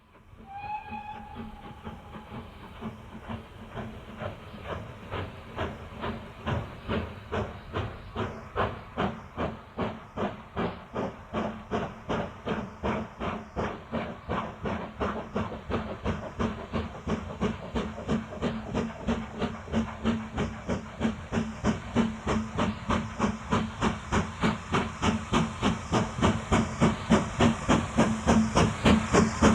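Steam locomotive working under steam, its exhaust beats coming at about two a second and growing steadily louder as it approaches. A brief steam whistle sounds at the start.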